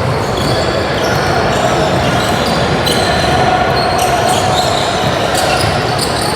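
Youth basketball game in a gym: a ball bouncing on the court, short high sneaker squeaks, and a steady murmur of crowd and player voices.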